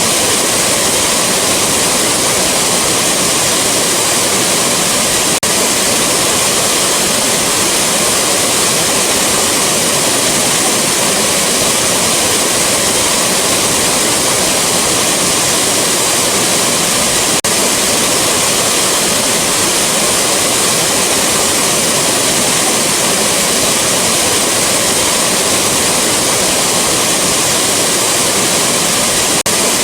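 A waterfall rushing steadily, a loud even roar of falling water.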